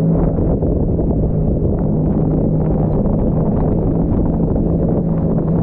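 Jet ski engine running at a steady pitch, with wind buffeting the microphone.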